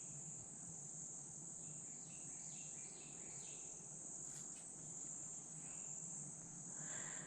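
Faint, steady, high-pitched chorus of crickets or similar insects trilling without a break. A few faint short chirps sound about two to three seconds in.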